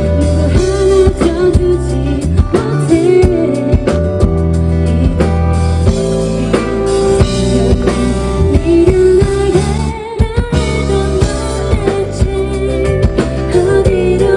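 Live K-pop song over a loudspeaker system: a woman singing over a steady beat with heavy bass.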